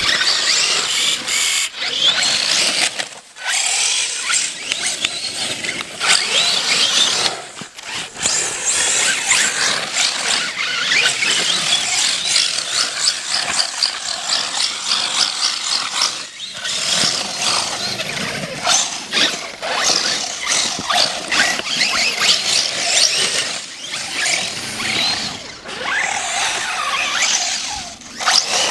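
Brushless electric motor of a radio-controlled truck whining, its pitch rising and falling as the throttle is worked, with several short breaks when it lets off.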